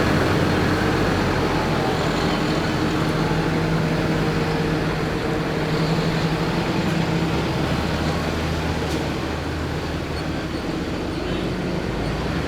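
Tractor engine running steadily, a constant low drone with a light noisy haze over it, easing slightly in level toward the end.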